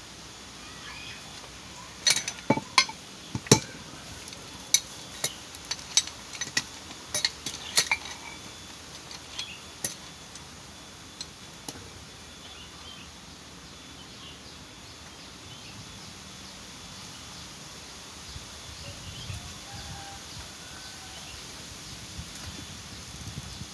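Metal tools and pump parts clinking and tapping against each other while a water pump's bearing is being replaced: a dozen or so sharp, separate clinks over the first ten seconds, then only a faint steady background.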